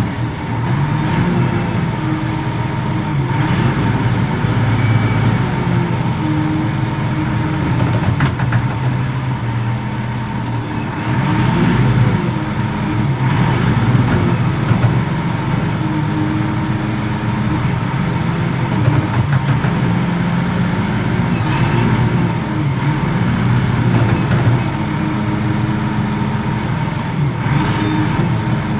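Heavy diesel engine of a container reach stacker running under load, its pitch rising and falling every few seconds as it revs up and eases off, with a steady high whine over it.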